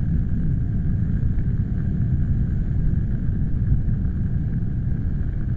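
Wind rumbling on the microphone: a steady, low, uneven rumble with a faint higher hiss.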